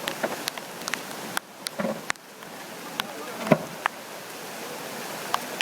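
Steady rushing noise of a rain-swollen river in flood during a typhoon, with irregular sharp clicks and a couple of dull knocks over it.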